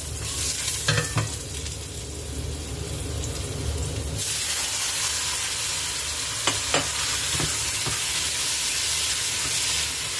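Food sizzling in hot oil in a nonstick wok while a spatula stirs it. The sizzle gets louder about four seconds in, and a few light clinks of the spatula against the pan and bowl come later.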